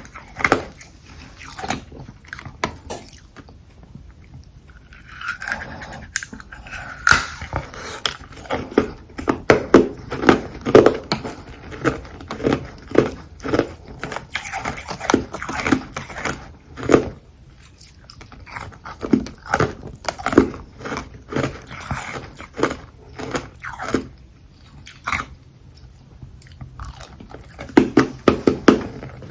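Close-miked bites and chewing of frozen carbonated ice: runs of sharp, crisp crunches in bursts, with short pauses between mouthfuls.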